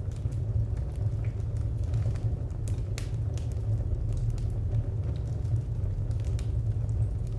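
Wood fire burning with a steady low rumble and scattered sharp crackles and pops, a few louder pops about three seconds in and again near six seconds.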